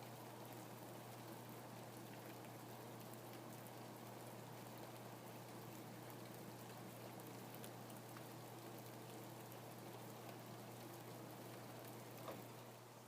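Faint, steady rain with scattered small drop ticks and a low hum underneath; one drop is slightly louder near the end.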